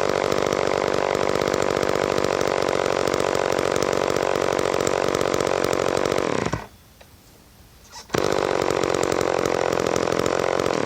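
Homelite 150 Auto two-stroke chainsaw running steadily at speed, then dying away about six and a half seconds in. After a second and a half of quiet it starts again at full speed and keeps running.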